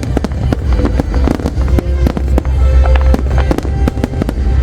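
Large aerial fireworks display going off without pause: rapid bangs and pops in quick succession over a deep, continuous rumble, with music playing alongside.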